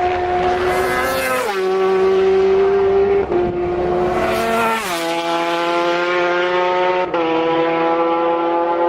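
Racing superbike engine at full throttle, accelerating hard and upshifting three times: the engine note drops sharply with each gear change, then climbs again as the revs build.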